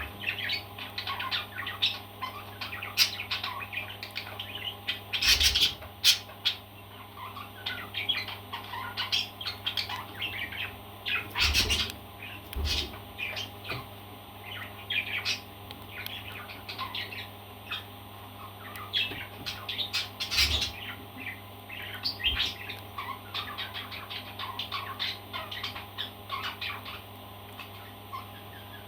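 A parrot chirping and chattering in many short, quick calls, with a few louder squawks, and several knocks, two of them close together near the middle.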